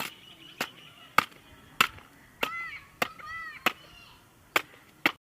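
Sharp, evenly spaced strikes, about one every 0.6 seconds, with two short rising-and-falling calls in the middle. The sound cuts off suddenly near the end.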